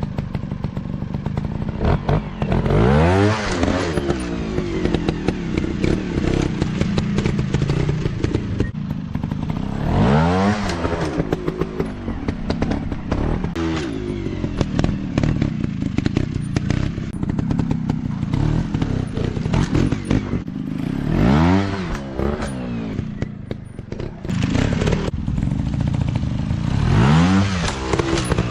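Dirt bike engine being ridden off-road, revving up and down, with four big surges of revs, plus knocks and clatter throughout.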